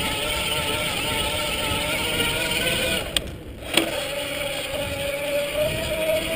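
Electric mountain bike's motor whining steadily under a rushing noise. It drops out briefly about three seconds in, with a click at each end of the gap, then returns, its pitch rising slowly.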